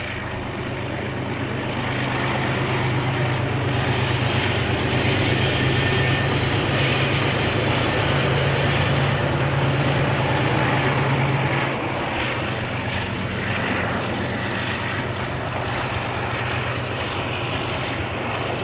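KiwiRail diesel locomotive hauling a container freight train past, its engine drone loudest for the first two-thirds, then easing off about twelve seconds in as the container wagons roll by. Heard through a security camera's microphone.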